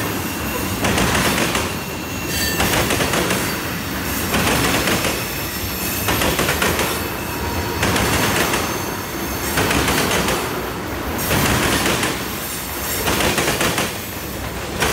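Railroad cars rolling past. The wheel noise swells and fades about every one and a half seconds, with brief faint wheel squeals.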